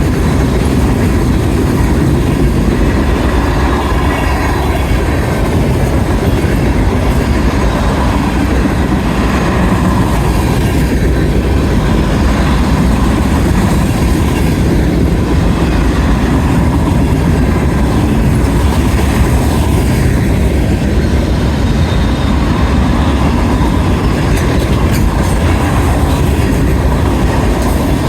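Norfolk Southern freight train 15M passing at close range: the steady noise of its cars' wheels running on the rails.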